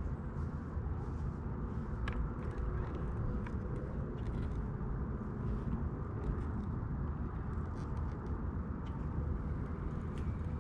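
Boat motor running steadily with a low rumble and a faint hum, a few light ticks over it.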